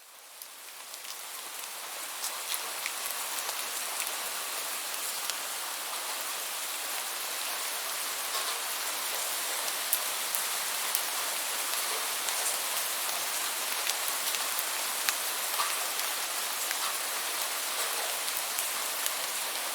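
Steady rainfall, an even hiss with many scattered drop ticks, fading in over the first two seconds and then holding steady.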